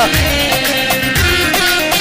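Arabic wedding dance music between sung lines: an electronic keyboard (org) plays a melody of short held notes over a steady drum-machine beat, with a deep kick drum about twice a second.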